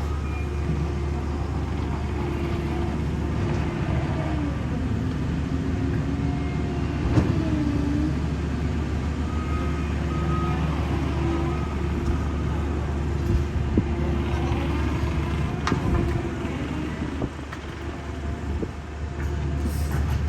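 Heavy asphalt-paving equipment engines running steadily with a deep rumble, the engine note dipping and rising a few times, and a couple of sharp knocks, about a third of the way in and again past three quarters.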